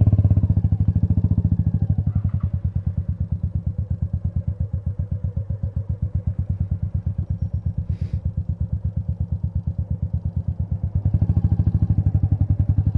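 Royal Enfield Meteor 350's single-cylinder engine running under way, an even rapid thumping of exhaust beats. It is louder for the first second, eases off, then pulls harder again near the end.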